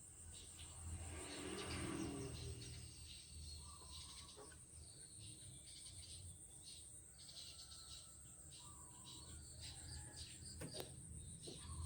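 Faint outdoor background of small birds chirping in short scattered calls, over a steady high insect-like drone, with a single sharp click near the end.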